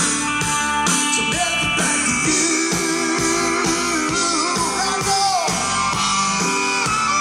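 Live band playing amplified rock-style music: electric guitar over a steady drum beat of about two hits a second.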